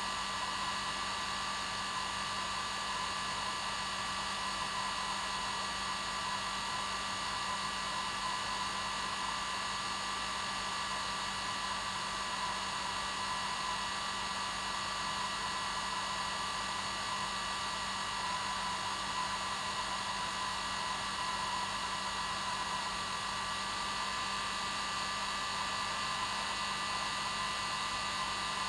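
Hair dryer running steadily: an even rushing air noise with a constant motor whine, no change in speed.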